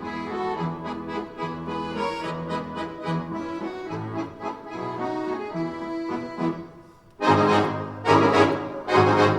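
A bayan orchestra (button accordions) playing a lively passage of quick notes over sustained bass. About seven seconds in it drops almost to silence, then comes in with loud full-ensemble chords.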